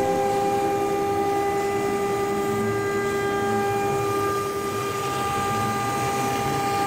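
CNC router spindle running at speed, a steady high whine over the hiss of cutting.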